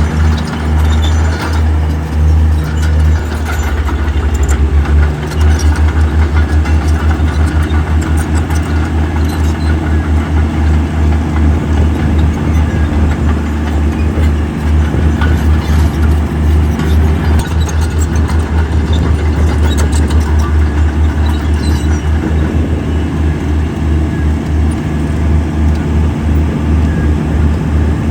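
Heavy diesel engine of an earthmoving machine running, a steady low pulsing sound, with scattered short clicks and clatter over it.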